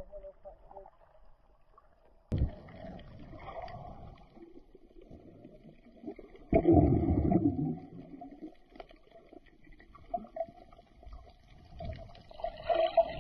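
Water gurgling and sloshing around a camera held underwater while snorkelling, with a faint steady hum and sudden louder surges about two seconds in, midway, and near the end.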